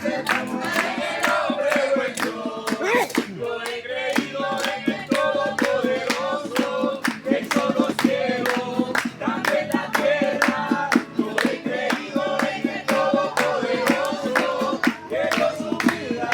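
A group of voices singing a praise song together to a fast, steady beat.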